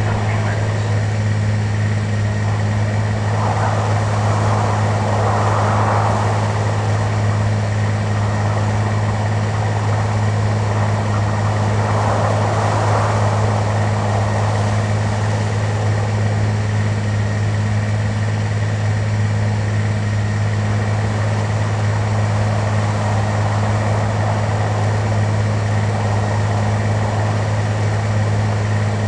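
Airliner cabin noise in flight: a steady drone of engines and rushing air, with a strong low hum and a faint high tone running under it.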